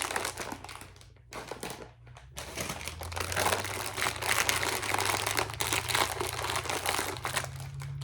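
Plastic snack bag of Calbee shrimp chips crinkling as it is handled and rolled up, with two short pauses early on.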